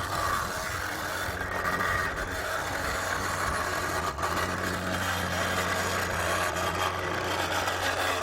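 Radio-controlled construction trucks running steadily with a low, even engine-like hum.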